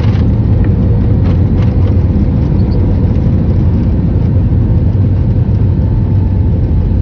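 Steady, loud low rumble inside a jet airliner's cabin as it lands: engine noise and the roll of the wheels on the runway.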